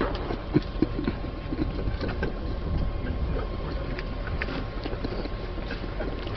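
Steady low rumble of a moving train, with scattered light clicks and rattles.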